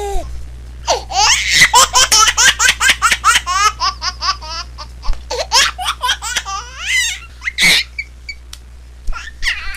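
A baby laughing in a long run of quick, high-pitched giggles, about three or four a second. The giggles break off around seven seconds in with one short squeal, then a few more giggles come near the end. A low steady hum runs underneath.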